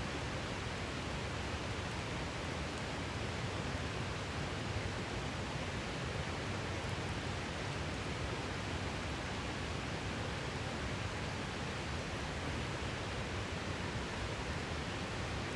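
Steady rushing of a river, with a few faint scattered crackles from a campfire.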